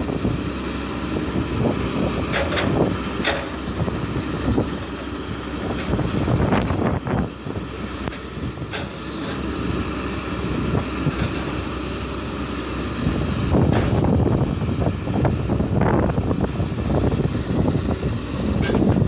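Caterpillar 320D2 hydraulic excavator working, its diesel engine and hydraulics running steadily with sharp knocks now and then; it grows louder about two-thirds of the way through.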